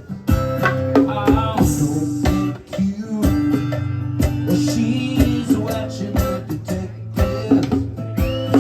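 Live acoustic guitar music: an instrumental passage of rhythmic strumming and plucked notes, with no words sung.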